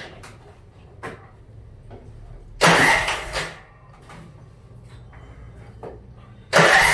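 A riding mower's new electric starter cranks the engine in two short bursts of about a second each, roughly four seconds apart. The engine turns over but does not fire.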